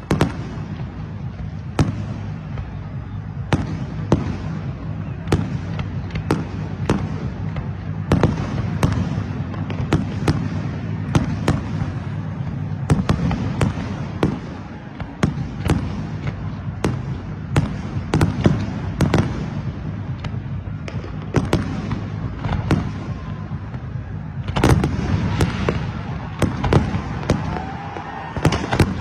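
Many fireworks going off, a rapid, irregular stream of sharp bangs over a continuous low rumble. A denser, louder cluster of bangs comes about 25 seconds in.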